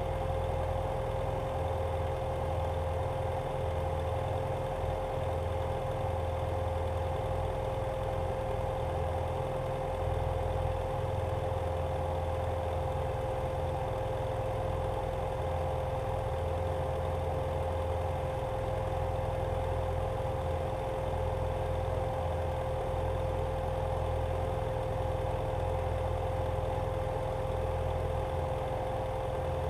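BMW F800GS Adventure's parallel-twin engine running at steady, unchanging speed, a low rumble with a constant hum over it.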